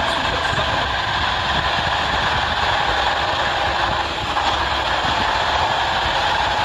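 Army truck's heavy engine running steadily, a continuous low rumble with no change in pace.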